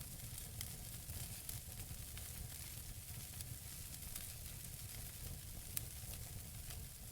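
Wood fire burning in a fireplace: a steady soft hiss over a low rumble, with scattered sharp crackles from the burning logs and one louder pop about six seconds in.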